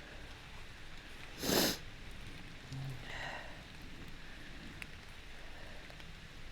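A person sniffs once, sharply and close to the microphone, about a second and a half in, over a faint steady hiss of shallow creek water.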